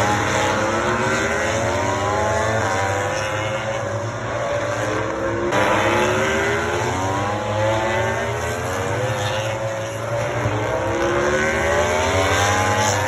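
Racing motorcycles at full throttle, their engine pitch climbing and dropping back again and again as they shift up through the gears.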